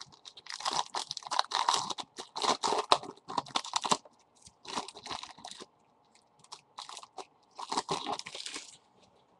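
Foil trading-card pack wrapper being torn open and crinkled by hand: a long stretch of crackling rustle, then two shorter bursts a few seconds apart.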